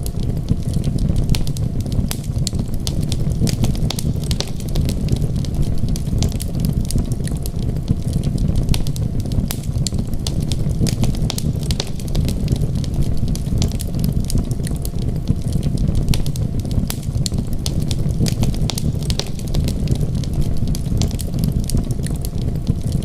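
Wood fire crackling with many small irregular pops and snaps over a steady low rumble.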